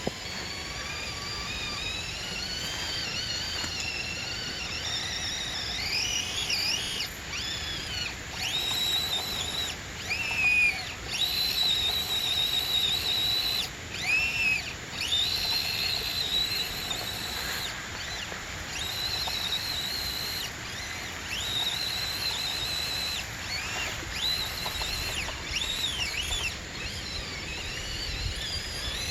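Electric drive motor and gearbox of an Axial SCX24 Gladiator 1/24-scale RC crawler whining, its high pitch rising and falling with the throttle in short bursts, with stretches of steady whine between.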